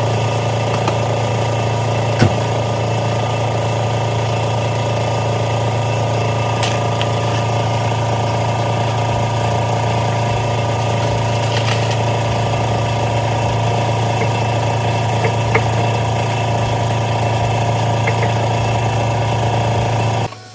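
Subaru Impreza GDB's flat-four engine idling steadily, with a few faint clicks over it. The sound cuts off abruptly near the end.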